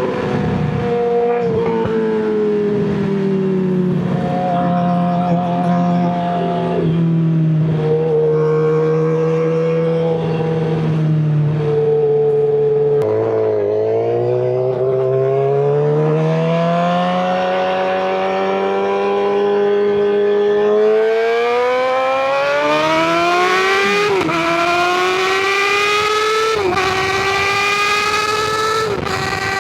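Suzuki GSX-R600 inline-four with an M4 slip-on exhaust, under way. The engine note eases down for the first half, then climbs steadily as it accelerates, with quick dips about every two and a half seconds near the end as it shifts up through the gears.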